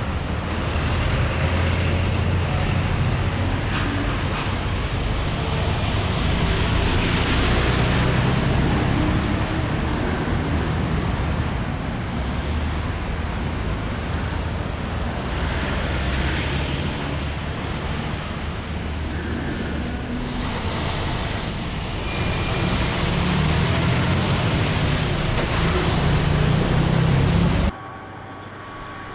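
Steady vehicle and traffic noise with a deep rumble, cutting off suddenly near the end.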